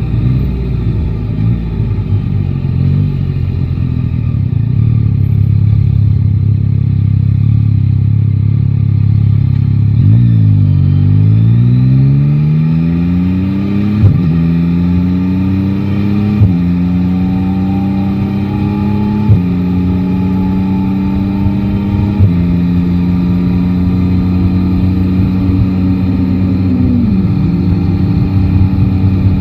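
Motorcycle three-cylinder engine, heard from the rider's seat, running steadily at low revs. About a third of the way in it pulls away and the pitch climbs through four quick upshifts, each a brief drop in pitch. It then holds a steady cruise.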